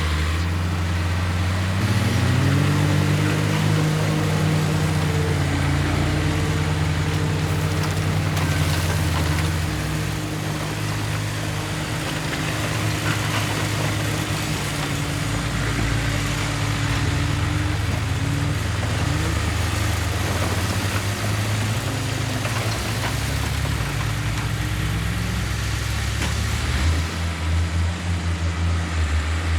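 Heavy diesel engine of earthmoving equipment running under load, its revs rising about two seconds in, holding, then dropping back and changing again several times.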